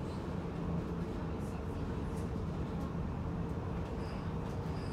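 Steady rumble of a passenger train running along the track, heard from inside the carriage, with a few faint ticks over it.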